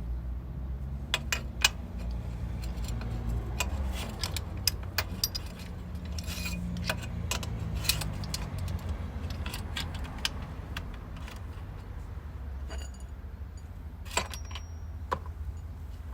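Metal tools and parts clinking and clattering in irregular sharp clicks over a low steady rumble, typical of hands-on work on a motorcycle's rear wheel.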